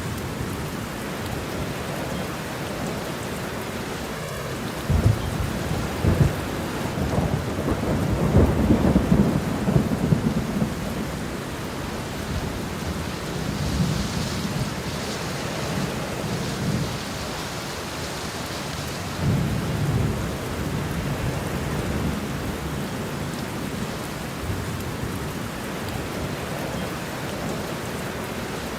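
Steady heavy rain with rolling thunder: low rumbles swell and fade several times, the strongest about five to eleven seconds in and again around twenty seconds.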